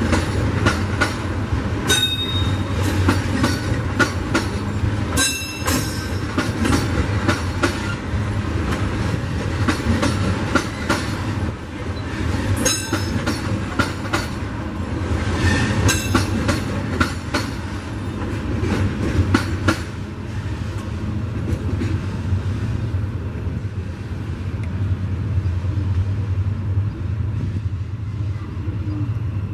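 Freight wagons loaded with eucalyptus logs rolling past, wheels clicking over rail joints with a few brief metallic squeals. About two-thirds of the way in the clicking dies away, leaving a steady low rumble.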